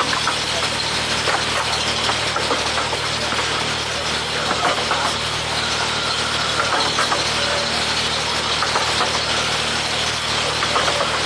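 A 15-inch gauge miniature railway train running steadily: a low, even engine drone from the locomotive under a constant rumble and clatter of small wheels on the rails, heard from an open carriage.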